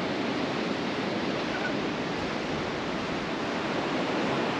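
Steady rush of Pacific Ocean surf washing up the beach.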